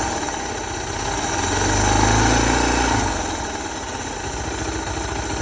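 Suzuki DR650SE's single-cylinder four-stroke engine idling, briefly revved up about a second and a half in and then dropping back to idle.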